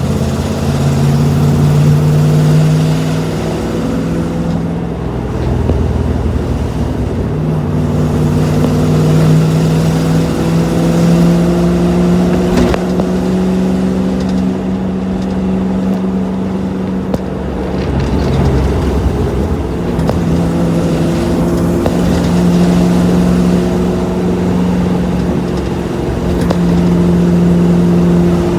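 1984 Land Rover's Rover V8 engine running steadily, its note rising and falling gently as the revs change, with a dip in pitch about two-thirds of the way through.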